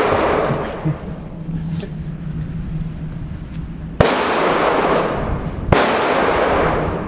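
Two handgun shots, about four seconds in and again under two seconds later, each ringing out in the echo of an indoor range; the start carries the fading echo of a shot fired just before.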